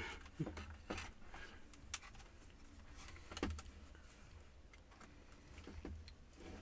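Faint, scattered clicks and taps of a laptop's plastic case and parts being handled during disassembly, about five light knocks over several seconds.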